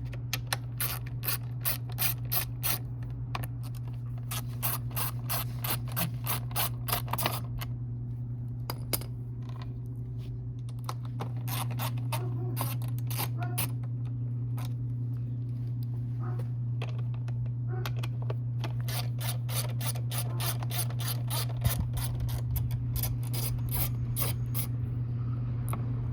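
Hand socket ratchet clicking in quick, even runs as the bolts holding the dirt bike's gas tank are loosened. There are two spells of clicking, one at the start and one near the end, with a pause between them broken by a few scattered knocks. A steady low hum runs underneath.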